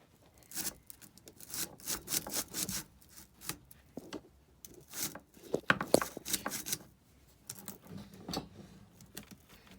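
Irregular scraping, rubbing and clicking of hands working on a small chainsaw's bar, chain and cover, metal and plastic parts knocking and sliding against each other.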